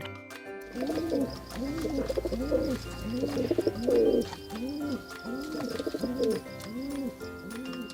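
Pigeon cooing: a steady run of repeated coos, each one rising and then falling in pitch, about one and a half a second.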